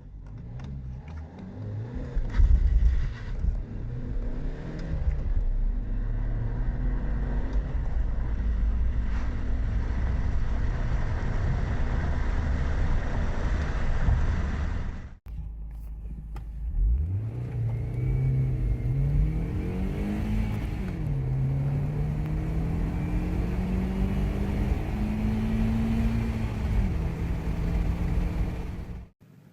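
Car engine under hard acceleration in two separate runs, one cut abruptly into the next. In the first the engine makes a dense low rumble. In the second the engine pitch climbs steadily, drops sharply at a gear change, then climbs again through the next gear.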